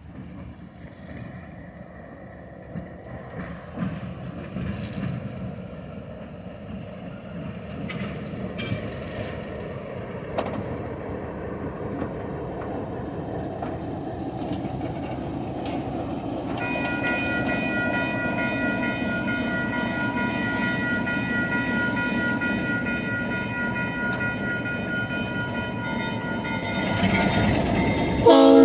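ALCO RS-11 diesel locomotive hauling a passenger train, its rumble and wheel noise growing steadily louder as it approaches. A steady high ringing tone joins about halfway through, and the horn starts sounding right at the end.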